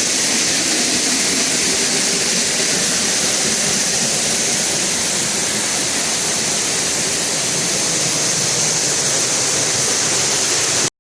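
Dry Falls waterfall pouring loudly and steadily, a dense even rush of falling water. The sound cuts off abruptly near the end.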